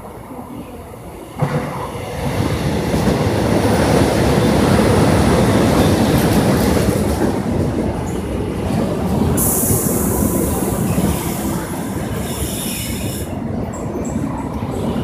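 Korail Line 1 resistance-control electric multiple unit (set 1x70) running on the track. A loud rumble and rail clatter begins suddenly about a second and a half in, with a burst of high hiss about two-thirds of the way through.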